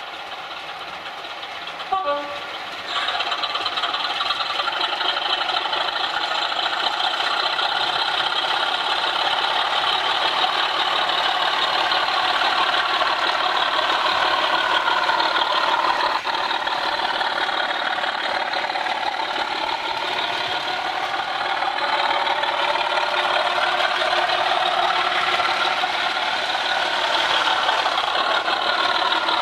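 Sound-fitted (DCC) model locomotive playing its engine sound through its small onboard speaker, with a short horn-like note about two seconds in. About a second later the engine sound jumps up loudly and then runs on steadily as the loco travels.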